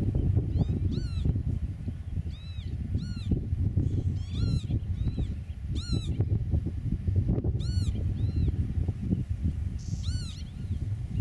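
Short, arched piping calls from a bird, roughly one every second, over a steady low rumble of wind noise.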